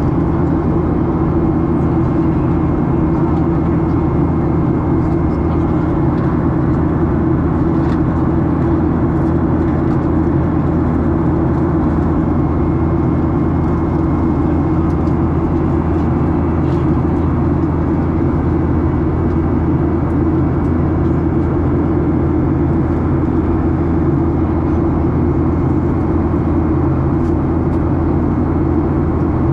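Steady, loud drone of an airliner's engines and rushing air heard inside the passenger cabin in flight, low-pitched and unchanging.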